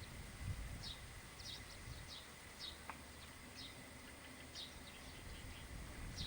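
A bird calling with short, high, falling chirps repeated about once or twice a second, over a faint low rumble.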